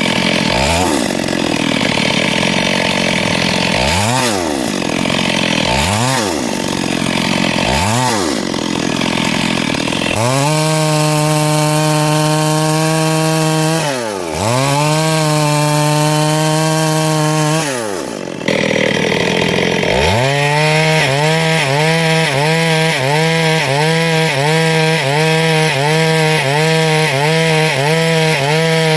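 Two-stroke chainsaw engine revving up and down several times. It then runs at full throttle cutting through wood, dropping briefly twice. In the last part its speed dips in a quick, regular rhythm as it works through the cut.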